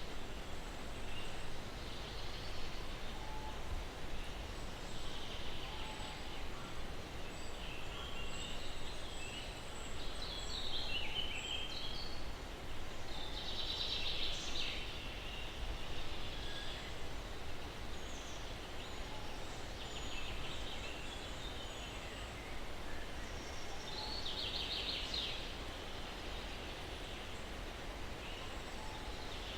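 Songbirds calling in short bursts every few seconds, a couple of them rapid trills, over a steady low rush of breeze.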